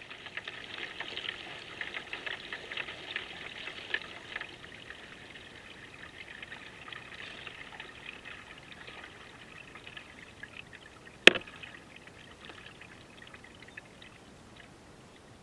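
Kayak paddle strokes: water trickling and dripping off the paddle blades with light splashes. A single sharp knock about eleven seconds in.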